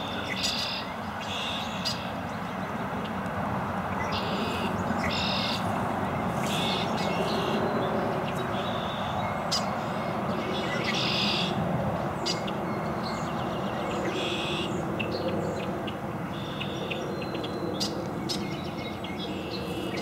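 Birds chirping: short, repeated calls about once a second over a steady background hiss and rumble.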